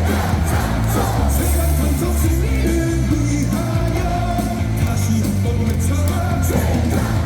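Baseball stadium crowd singing and shouting along to an amplified cheer song with a heavy, steady bass beat.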